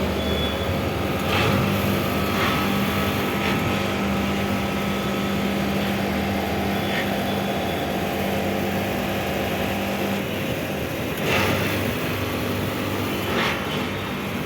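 Air conditioner running with a steady mechanical hum over a rushing noise. The hum drops away about ten seconds in and comes back a couple of seconds later, with a few brief noisy bursts along the way.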